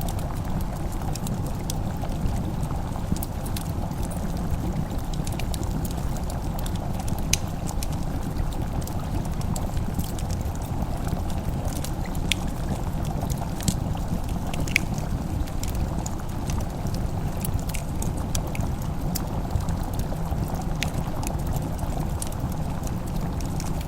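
Wood fire crackling in a fireplace: scattered sharp pops and snaps over a steady low noise.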